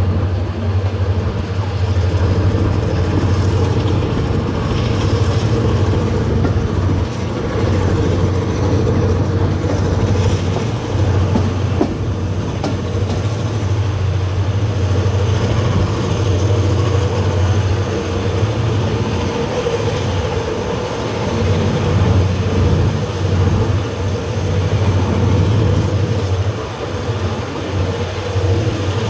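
Passenger train running along the track, heard from an open coach door: a steady low rumble of the coaches with occasional faint clicks of wheels over the rails.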